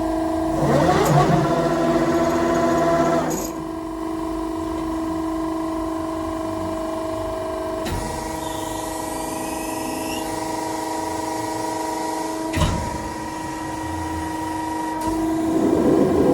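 Press brake machinery running with a steady pitched hum. A louder rushing surge comes near the start and another near the end, and a sharp click falls about two-thirds of the way through.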